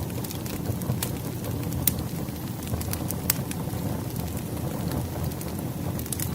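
Burning wood fire: a steady low rumble with irregular sharp pops and crackles from the logs, a few each second.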